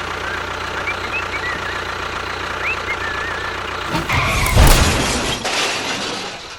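A steady, engine-like machine hum, then a loud noisy crash about four seconds in that dies away over a couple of seconds.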